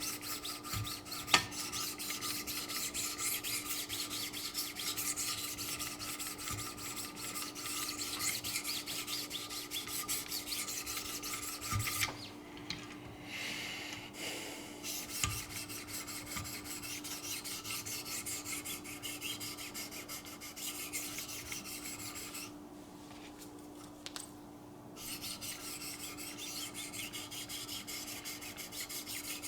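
Knife edge being stroked against 1000-grit Wicked Edge diamond sharpening stones: a steady, gritty rasping of repeated strokes that breaks off briefly twice.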